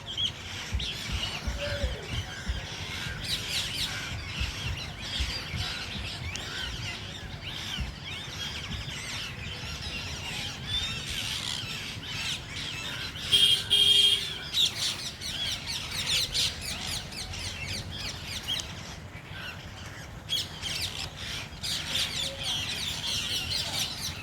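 Several parrots calling: a steady run of short chirps and squeaks, with a louder drawn-out squawk about halfway through.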